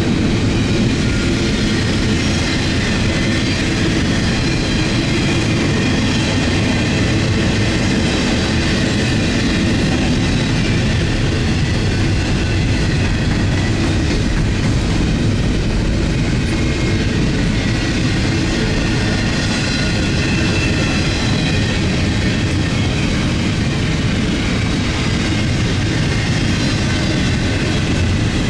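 CN intermodal freight train's cars rolling steadily past, a continuous loud rumble of steel wheels on the rails.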